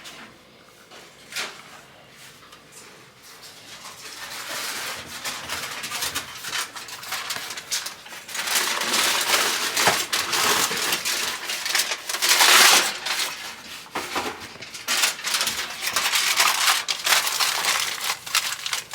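Aluminium foil being pulled off the roll, torn and crimped over a baking dish: crinkling and rustling with small clicks and knocks, starting a few seconds in and going on in bursts.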